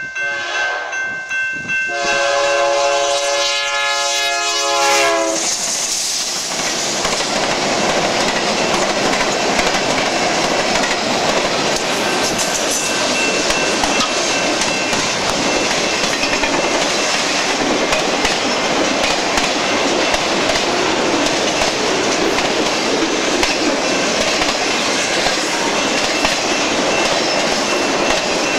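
Grade-crossing bell ringing as the train nears, then the lead diesel locomotive sounds one long horn blast of about three seconds. After that the eight-unit locomotive consist runs past and a long string of autorack cars rolls by with steady wheel clatter over the rail joints.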